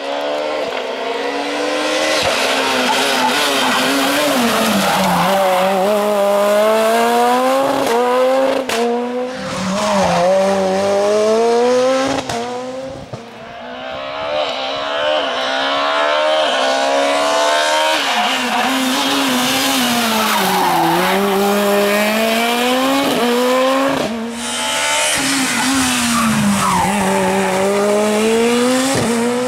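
Rally cars driven hard on a closed stage, engines revving up and dropping back again and again through gear changes and lifts off the throttle. The sound breaks off abruptly a few times, switching to another car.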